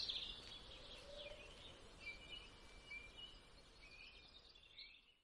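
Faint birdsong: short whistled chirps and trills over a low background hum, fading out at the end.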